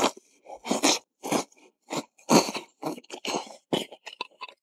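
A man chewing meat, an irregular run of chewing and mouth sounds about two a second that stops shortly before the end.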